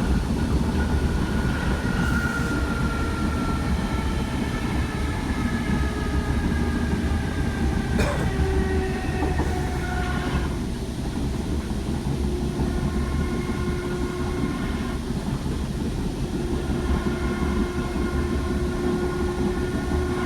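Iarnród Éireann class 8100 DART electric train heard from on board, with a steady low running rumble. Several whining tones fall slowly in pitch over the first half as the train slows approaching a station, then hold steady. A single sharp click comes about eight seconds in.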